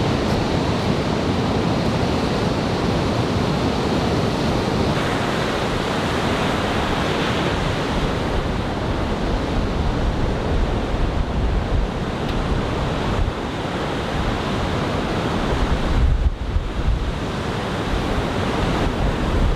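Heavy typhoon-swell surf breaking and washing up the beach as a steady roar of water, with wind buffeting the microphone, gusting hardest about three-quarters of the way through.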